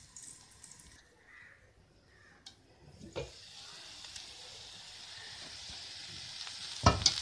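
A banana-blossom stir-fry sizzling steadily in a non-stick pan after near silence for about three seconds, the sizzle slowly growing louder. A knock comes about three seconds in, and a steel spoon clanks against the pan near the end.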